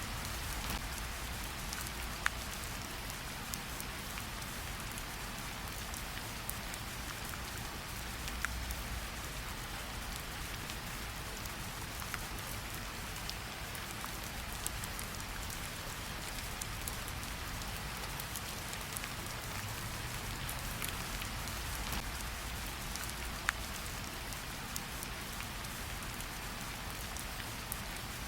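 Steady rainfall, an even hiss with scattered sharp taps of individual drops and a low rumble underneath.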